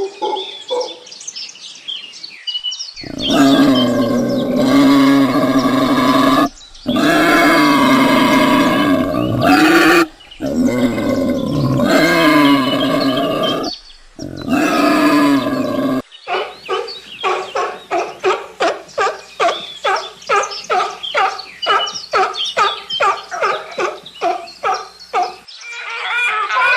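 Animal calls. Several long, loud calls with many harmonics are broken by short pauses. These are followed by a long run of quick, evenly repeated short calls, about three a second.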